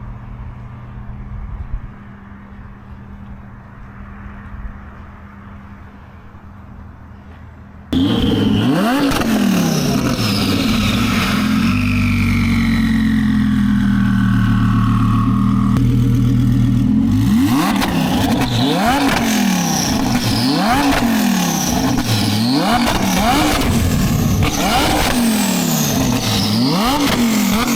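Twin-turbo Lamborghini Huracán V10 idling, then about eight seconds in it goes to full throttle. The revs climb steeply, hold high for a few seconds and drop, then rise and fall again and again, about every second and a half.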